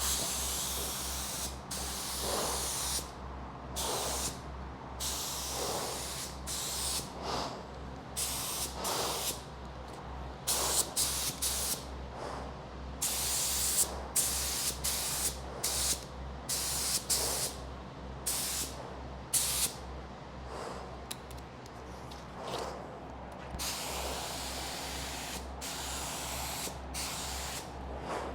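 Spray gun laying down epoxy primer: repeated bursts of hissing spray as the trigger is pulled and released, some short, some held for a second or two, over a steady low hum.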